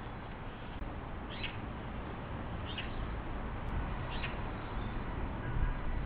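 A small bird calling three times, short high calls evenly spaced about a second and a half apart, over a steady background hiss.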